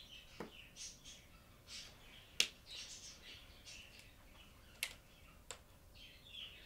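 Small birds chirping over and over in the background, with a few sharp plastic clicks from markers being handled. The loudest click comes about two and a half seconds in.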